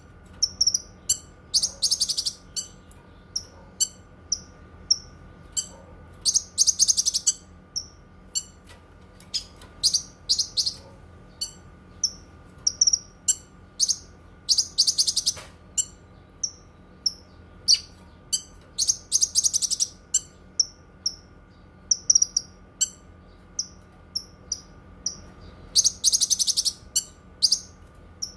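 Cucak kinoi songbird singing: a quick string of short, sharp high chirps, broken every few seconds by longer dense rattling phrases about a second long. A faint steady hum runs beneath.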